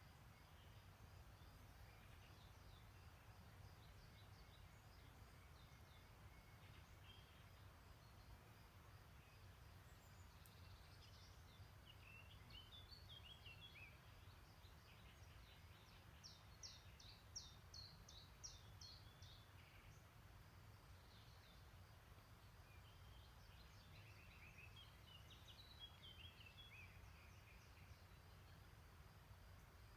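Faint songbirds singing: scattered short high phrases, with a quick run of sharp high notes near the middle, over a steady low rumble.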